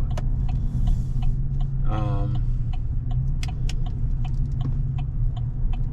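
Chevrolet Silverado cab interior while driving: the steady low drone of engine and road, with a turn signal ticking evenly about four times a second.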